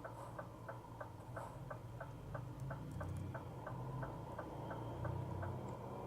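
Turn-signal indicator ticking in a Scania R450 truck cab, about three clicks a second, stopping about five and a half seconds in as the signal cancels, over the steady low drone of the diesel engine.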